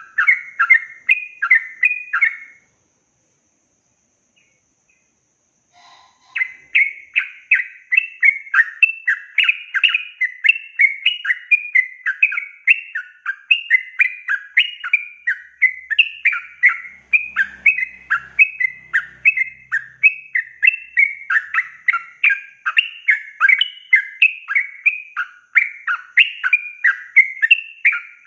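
Yellow-vented bulbul (trucukan) singing a fast, continuous run of bubbly chattering notes, several a second. It breaks off briefly a couple of seconds in and starts again about six seconds in.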